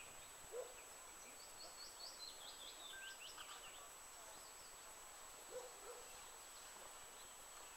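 Near silence in a bog, with a small bird faintly singing a quick run of short high notes about a second and a half in, lasting around two seconds.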